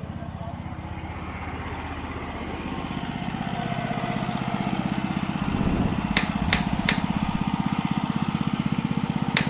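Small mini-tractor engine running with a fast, even beat, getting louder over the first several seconds, with a few sharp metallic clicks after the middle.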